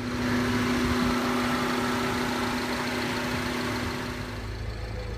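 The 2015 Mini Cooper S Countryman's 1.6-litre turbocharged inline four-cylinder idling steadily, growing slowly quieter toward the end.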